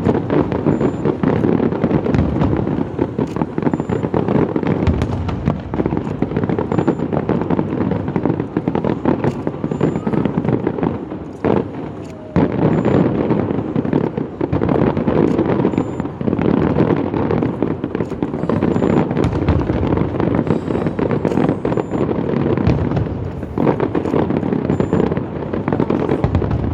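Fireworks going off in a dense, continuous barrage of bangs and crackling, easing briefly about twelve seconds in and again near the end.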